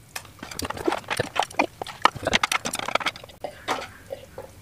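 Close-up eating sounds of instant fried noodles being chewed: quick, irregular wet mouth clicks and smacks.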